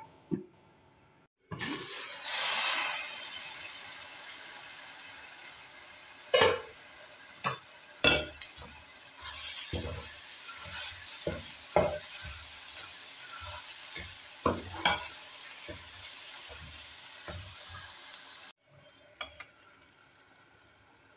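Minced meat keema sizzling and frying in a metal pan while a steel spoon stirs it, the spoon knocking against the pan a dozen or so times. The sizzling starts suddenly about a second and a half in, is loudest for a moment just after, and cuts off near the end.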